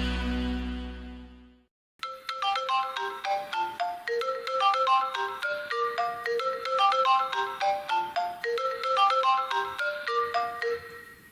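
Mobile phone ringtone: a quick melody of short, ringing pitched notes that fades out near the end. It is preceded by the fading tail of a fuller tone with a low bass, which dies away in the first two seconds.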